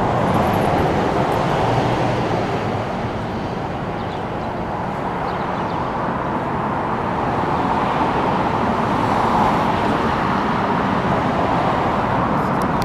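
Steady road traffic noise from passing vehicles, swelling slightly about nine seconds in.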